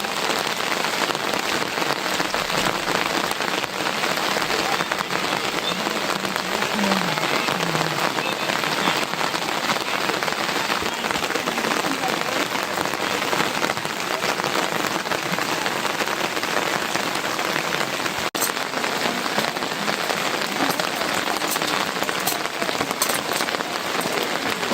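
Heavy rain falling steadily, a dense even hiss of drops, broken by a momentary dropout about three-quarters of the way through.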